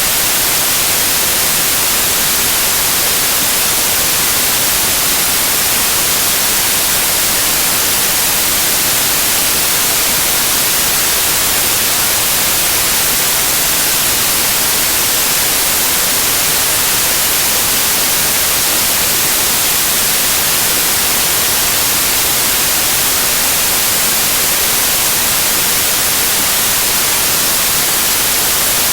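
Loud, steady white noise: an even hiss, brightest in the highs, with no changes or events.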